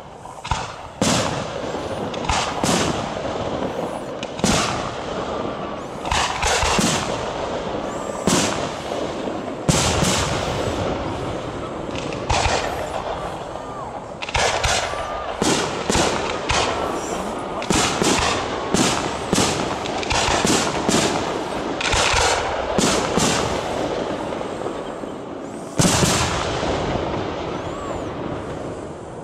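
Fireworks display: aerial shells bursting in a long irregular series of sharp bangs over a continuous crackle, coming thickest in the middle, with one especially loud bang near the end.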